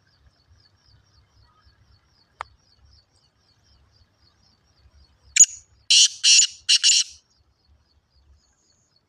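Black francolin calling: a sharp opening note, then three loud, harsh, grating notes in quick succession. A faint fast high ticking runs underneath.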